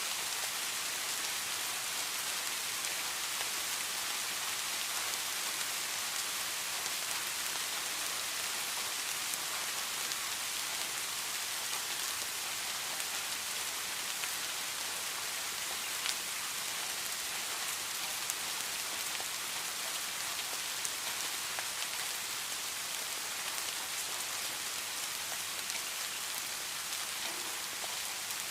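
Steady heavy rain falling, an even hiss with a few sharper drop ticks scattered through it.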